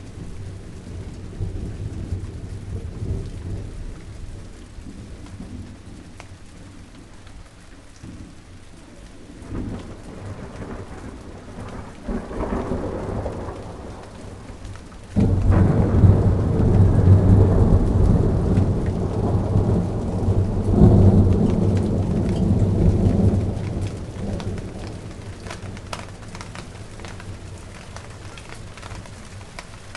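Steady rain falling on a garden, with individual drops ticking. Thunder rumbles low a couple of times, then a long, louder roll starts suddenly about halfway through and fades away after several seconds.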